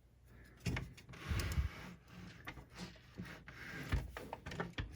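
Flathead screwdriver wedged in and prying at the small plastic piece that holds the laser sled's guide rail, scraping and rubbing on plastic with scattered clicks and a low knock about four seconds in.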